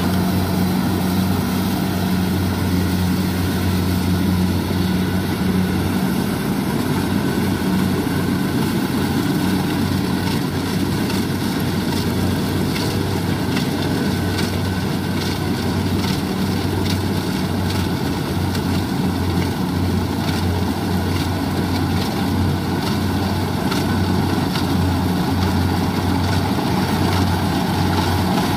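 Kubota rice combine harvester's diesel engine running steadily under load while cutting, a continuous low drone with a dense mechanical rush from the harvesting machinery over it.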